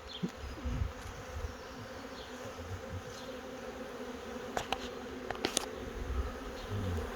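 Honey bee swarm buzzing: a steady hum of many bees, a swarm settling into a hive box. A few sharp clicks about four and a half and five and a half seconds in.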